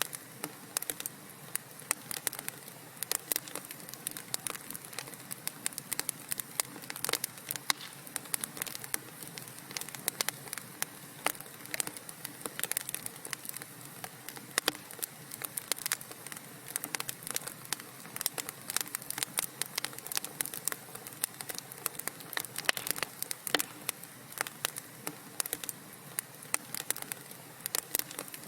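Wood fire crackling in a fireplace: a dense, irregular stream of small sharp pops and snaps over a soft steady hiss.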